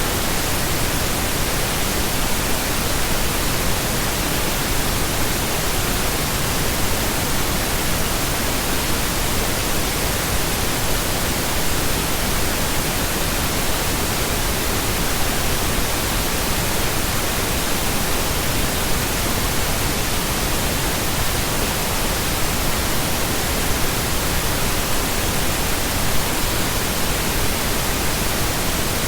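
Continuous pink noise: a steady, even hiss across the whole range, unchanging throughout.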